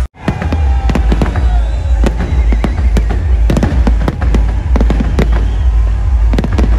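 Fireworks display in full barrage: rapid bangs and dense crackling pops from bursting shells over a heavy low rumble. The sound cuts in after a split-second gap at the start.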